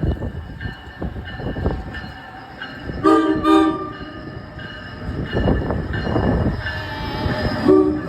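A train running past with steady wheel and track noise. A horn sounds loudly for under a second about three seconds in, with a short second toot near the end.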